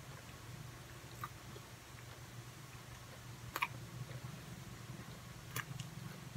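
Quiet mouth sounds of someone chewing a soft pastry bar, with three short sharp clicks, the loudest about halfway through, over a low steady hum.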